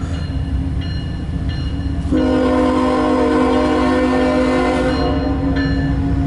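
Horn of a CSX diesel locomotive on a loaded coal train, sounding over the low rumble of the train; the blast gets much louder about two seconds in and is held steady from then on.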